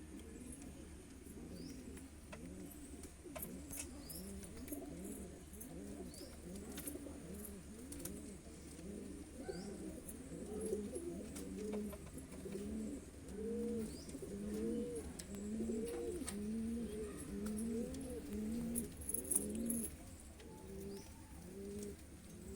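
Several domestic pigeons (Saharanpuri kabootar) cooing, their low rolling coos overlapping and repeating about once a second, growing louder about halfway through. Faint high chirps come through now and then.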